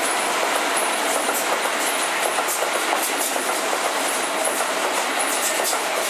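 Hokusō Railway 9100 series electric train passing close by: a loud, steady rolling rumble of wheels on rail, with the wheels clacking irregularly over the rail joints.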